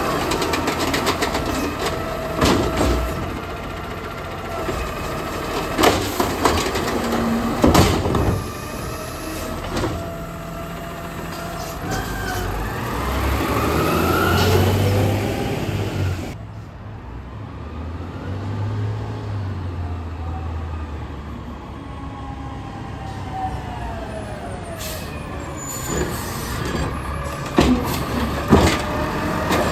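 Garbage truck at work: the engine revs up and down with a rising and falling whine through the middle, and sharp bangs and knocks come near the start and again near the end.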